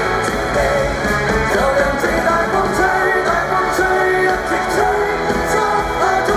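Pop-rock song: a lead vocal sings a melody over a full band with drums.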